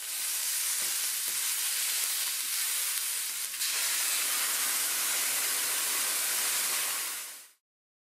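Strips of green bell pepper sizzling in sesame oil in a frying pan, a steady hiss. About halfway through it dips briefly and then comes back a little stronger as a soy-sauce-based liquid is poured into the hot pan, fading out near the end.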